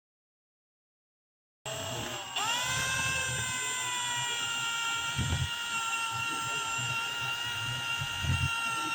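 Silence, then a handheld power tool starts abruptly, its high-pitched whine rising as it spins up and then holding a steady pitch, with a few dull low knocks underneath.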